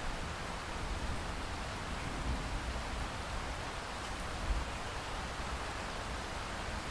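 Steady rain hiss over an uneven low rumble, with one brief low thump about four and a half seconds in.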